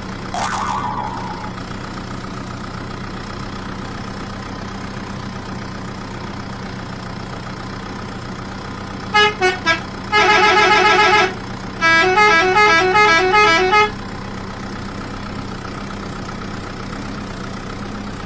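Battery-operated toy trucks and tractors running, with a steady drone of small motors and gears. About nine seconds in, the toys' electronic horn sounds three quick beeps, then two bursts of rapid chirping electronic tones.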